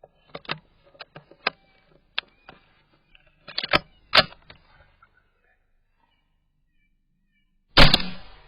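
A rifle's action being worked by hand to clear a jam: a run of sharp metallic clicks and clacks over the first few seconds. Near the end comes one loud bang that trails off.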